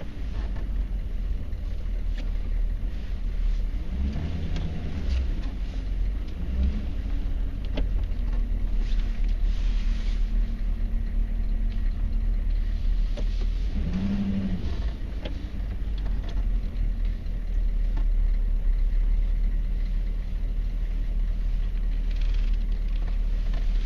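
1994 Chevy Silverado K1500's 6.5-litre turbo diesel V8 running as the truck drives slowly, heard from inside the cab as a steady low rumble with road noise.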